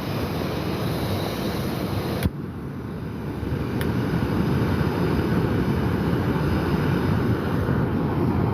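Heavy rain drumming steadily on a tarp overhead, with a sharp click about two seconds in and a fainter one a little later.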